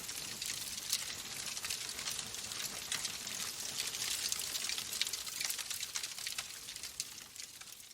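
Wood fire burning in a fireplace, crackling steadily with many small sharp pops over a soft hiss, fading down near the end.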